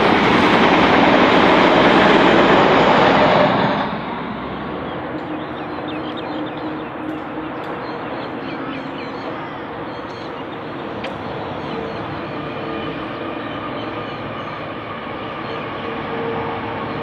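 Countrylink XPT diesel passenger train passing close by, a loud rush of wheels and power car, cut off suddenly about four seconds in. Then the steady drone of a coal train's diesel locomotives approaching from a distance, with a low hum and a higher whine held steady over it.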